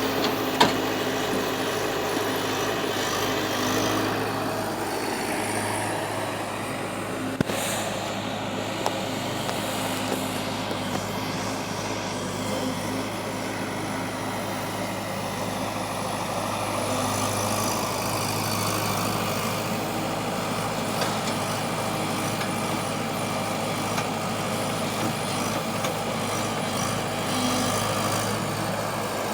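Excavator's diesel engine running steadily under load while it digs and loads soil, with a few sharp metallic clanks.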